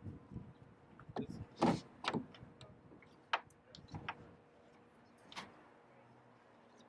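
A series of short knocks and scrapes, irregularly spaced, the loudest a longer scrape a little under two seconds in: cover battens being handled and seated into their sockets on a rowboat.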